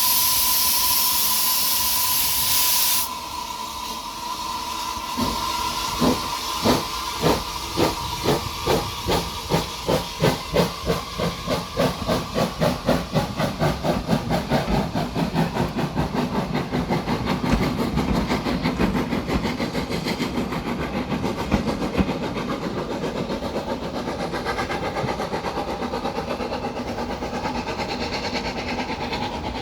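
Steam locomotive 3063 setting off: a loud hiss of steam with a steady whistle tone, the hiss cutting off about three seconds in. Then the exhaust beats start, slow at first and steadily quickening as it gathers speed, until they run together into a continuous chuffing rumble.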